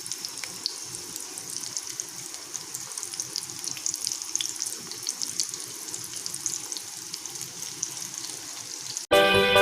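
Chicken cutlets deep-frying in hot oil: a steady sizzle with many small, quick crackles. Music comes in near the end.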